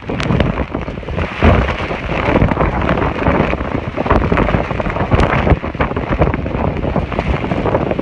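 Heavy downpour, a dense clatter of drops striking hard surfaces, with wind buffeting the microphone.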